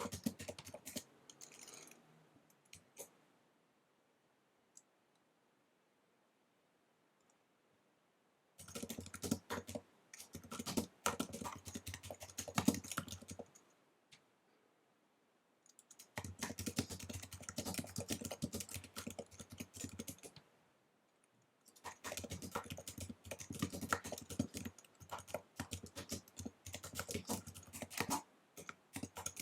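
Fast typing on an Apple wireless keyboard: dense runs of quick key clicks in bursts of several seconds, broken by pauses of a few seconds, the longest about five seconds near the start.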